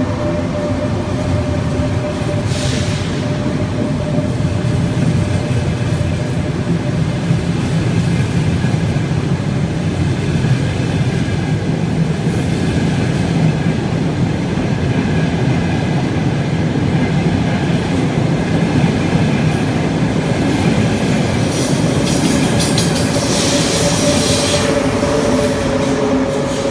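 Frecciarossa high-speed train rolling past along an underground station platform: a steady, echoing rumble with a constant hum. Brief hissing bursts come about two seconds in and again near the end.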